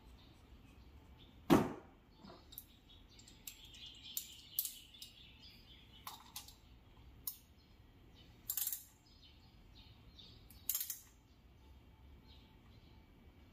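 Hand tools and small metal parts clinking and knocking as they are handled. One louder knock comes about a second and a half in, then scattered light clicks and two short rattling scrapes later on.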